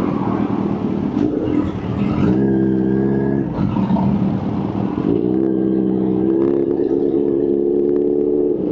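Kawasaki H2's supercharged 998 cc inline-four engine revving up twice. The first rise is held for about a second before dropping back, and the second is held for about three seconds.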